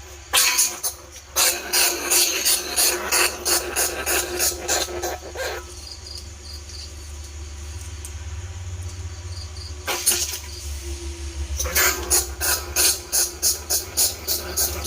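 Bandicoot rat squeaking calls used as a rat lure: rapid runs of sharp, high squeaks about four a second, stopping for a few seconds in the middle before starting again, over a steady low hum.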